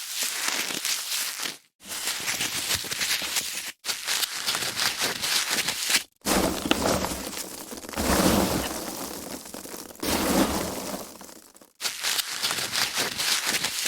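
Foam packaging being handled and crushed: a dense run of small crackles and crunches. It comes in about five separate takes, each cut off abruptly by a brief silence, with two longer swells in the middle.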